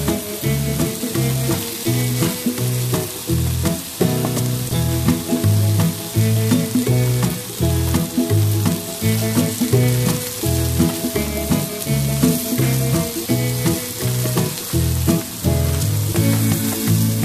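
Button mushrooms sizzling in oil in a ridged grill pan, a steady frying hiss. Background music with a steady beat plays over it.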